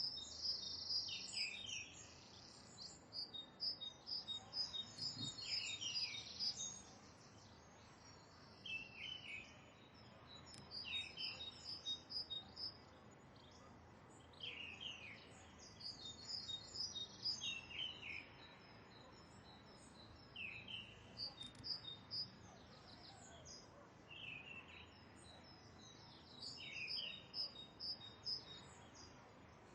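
Birds singing and calling: high chirping trills with short falling notes, repeated roughly every two seconds over faint background noise.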